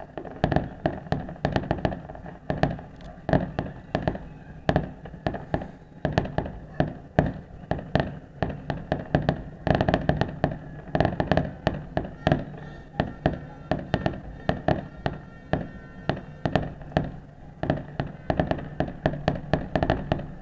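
Fireworks display exploding in rapid succession: a continuous barrage of sharp bangs and pops, several a second, with no break.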